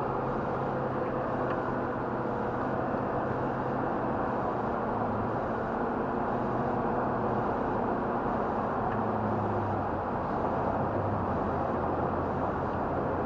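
Pickup truck driving at speed, heard from inside the cabin: a steady engine hum over road and tyre noise, the engine note shifting slightly a couple of times.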